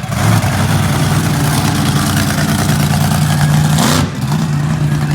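Monster truck engine running loud and steady, with a short rev rising in pitch and a loud blast about four seconds in before it settles back.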